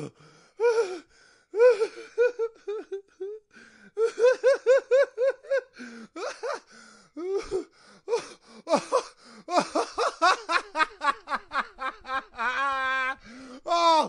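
A person laughing hard in runs of short, high-pitched "ha" pulses with gasping breaths between them. The pulses speed up to about six a second near the end, then give way to one longer wavering laugh.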